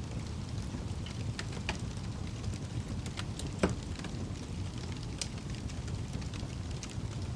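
Wood fire crackling in a fireplace: a steady low rumble of flame with scattered sharp pops and snaps, the loudest pop about three and a half seconds in.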